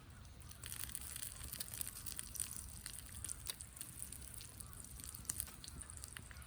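Sizzling and crackling from a wood fire in a fire pit being used to grill meat, picking up about half a second in, with many small sharp pops.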